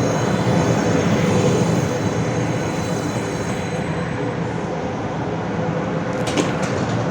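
Steady rumble of a moving vehicle, with a faint constant hum and a few short clicks about six seconds in.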